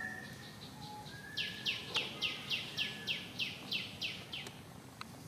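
A bird calling a rapid series of about a dozen short, high notes, each sliding downward in pitch, about four a second, starting a little over a second in and stopping after about three seconds.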